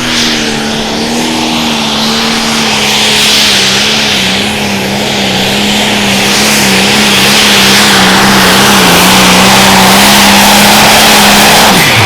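Turbocharged diesel engine of a Limited Pro Stock pulling tractor running loud and steady at full throttle under load, its pitch holding with a slight waver, then falling away sharply near the end as it comes off the throttle.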